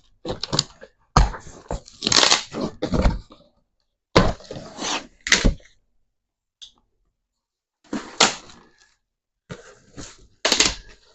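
Packaging being handled during an unboxing: a series of separate crackling, rustling bursts with short quiet gaps between them.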